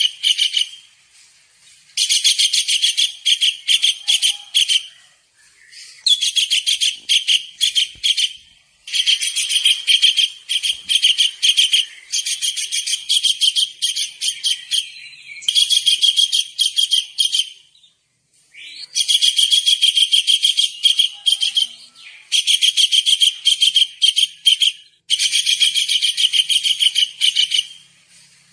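Kingfisher (tengkek udang) calling: bursts of rapid, shrill repeated notes, each one to three seconds long, with short pauses between.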